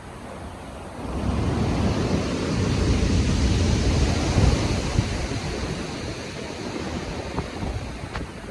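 Stormy sea surf: a wave builds about a second in, breaks and washes back out, over a low rumble of wind.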